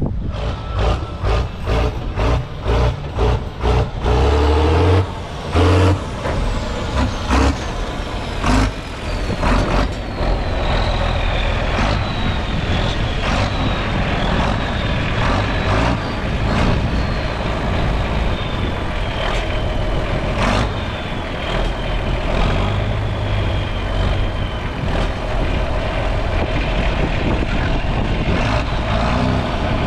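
A large diesel engine on heavy farm machinery running, with a rapid series of clanks and knocks in the first third. A thin whistle slowly falls in pitch over the middle of the stretch.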